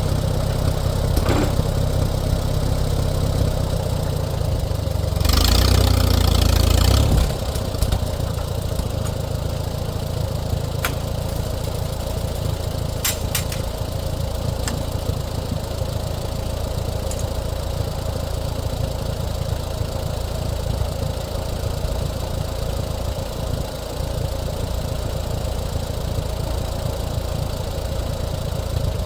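Allis-Chalmers WD-45 tractor engine idling steadily, louder than it should be because of its broken exhaust manifold. A loud rushing burst lasts about two seconds from about five seconds in, and a few sharp clicks come through later.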